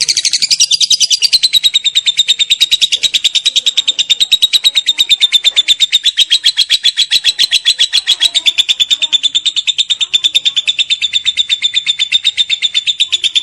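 Lovebird 'ngekek panjang': one long, unbroken chattering trill of rapid, sharp, high chirps, several a second. The pitch settles a little lower in the first second or two, then holds steady.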